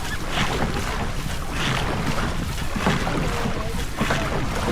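Wind buffeting the microphone over the rush of water past a boat under way, with a hissing splash that comes back about every second and a quarter.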